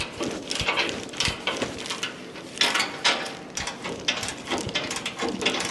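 Hand ratchet wrench clicking in quick runs, turning a socket on a bumper bolt, with scattered metal clinks of tools.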